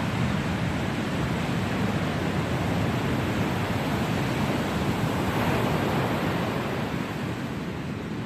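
Ocean surf breaking and washing onto a beach: a steady rush of waves that swells about five seconds in and eases slightly near the end.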